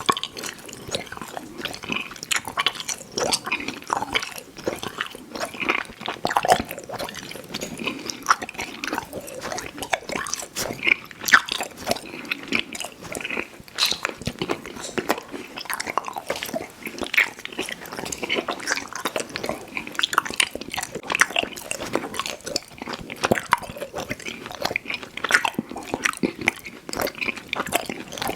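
Close-miked chewing of soft, chewy fruit candy (Airheads Bites and Tootsie Fruit Chews): steady wet smacking and sticky mouth clicks in an irregular run.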